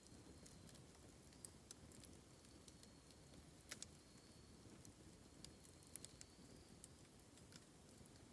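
Bamboo campfire burning quietly, with faint scattered crackles and pops over a low steady rumble; the sharpest pops come a little under four seconds in.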